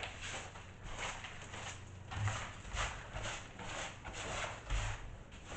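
A small broom sweeping loose debris and rotten flooring bits across the bus floor in quick, repeated strokes, about two or three a second.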